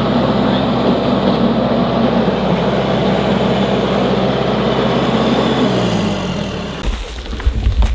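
Engine of a Kubota machine running steadily; near the end its pitch drops and the sound stops abruptly, leaving low uneven rumbling.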